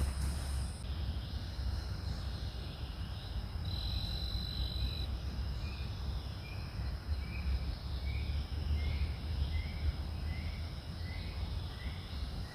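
Forest insect chorus: a steady high-pitched buzzing, with a short chirp repeating about twice a second through the second half and a low rumble underneath.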